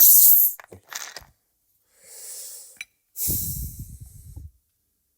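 A carbonated Coke drink opened with a sharp hiss of escaping gas, followed by a few small clicks. About three seconds in comes a second, longer fizzing hiss with a low rumble underneath.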